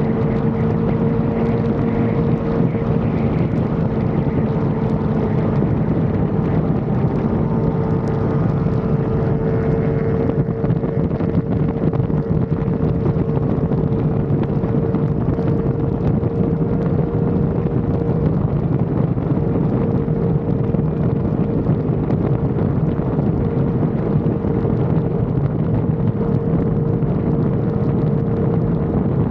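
Yamaha R1 sport bike's inline-four engine running at steady cruising revs, holding one pitch, with wind rushing over the action camera's microphone.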